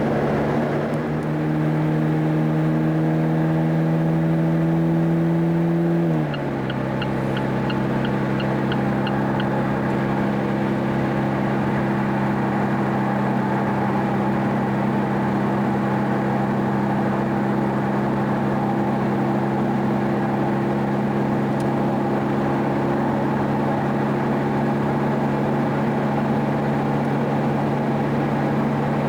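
Car engine droning under way, revs climbing slowly, then an upshift about six seconds in drops the pitch, and it settles to a steady cruising drone. A short run of faint, evenly spaced ticks follows the shift.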